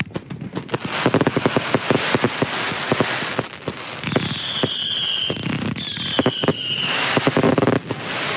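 Fireworks firing at close range: a rapid, dense string of cracks and launch pops. Around the middle come two whistles, each falling slightly in pitch.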